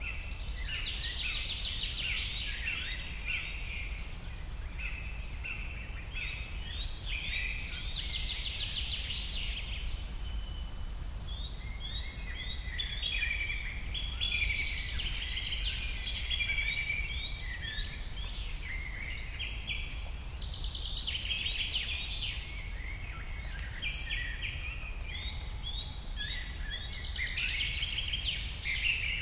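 Small birds chirping and twittering in a dense, continuous chorus of short high calls. A low steady rumble runs underneath.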